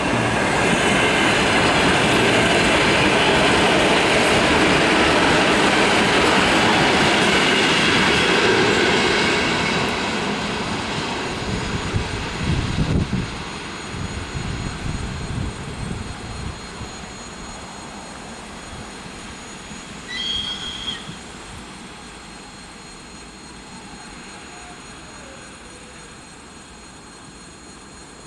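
A freight train of gondola cars rolling past, its wheels rumbling and squealing on the rails. It is loud for about the first ten seconds, with a few heavy low thumps a little later, then fades as the train moves away. A brief high-pitched chirp comes about twenty seconds in.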